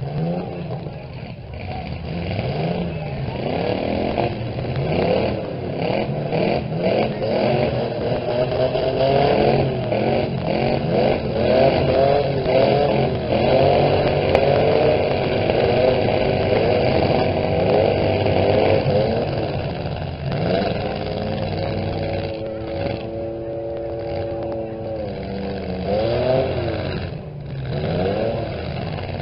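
Several small pickup truck engines running and revving at once, their pitches rising and falling and overlapping, as the trucks push against each other in a demolition derby heat.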